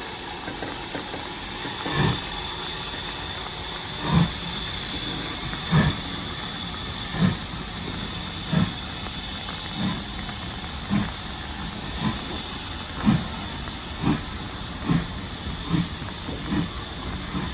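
Steam locomotive hissing steadily with a high whistling tone, while its exhaust chuffs come slowly at first and then closer and closer together, as it pulls away and gathers speed.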